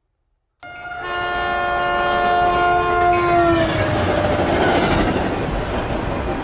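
A train horn sounds suddenly and holds a steady chord-like tone for about three seconds, its pitch sagging as it dies away, followed by the steady rushing rumble of a train running on the rails.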